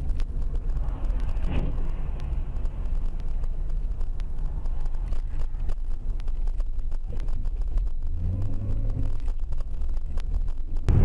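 Car driving, with a steady low engine and road rumble that swells a little about eight seconds in.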